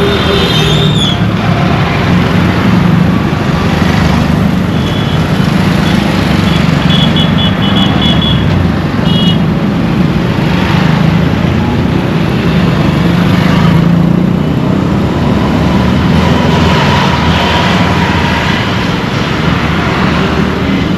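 Busy Indian road traffic heard while driving: steady engine and road noise. From about a fifth to nearly halfway through comes a run of short, high, repeated beeps.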